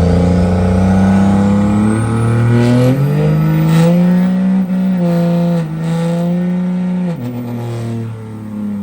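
Truck engine held at high revs during a burnout, its pitch stepping up about three seconds in, easing down twice, then falling away as the throttle comes off at the end.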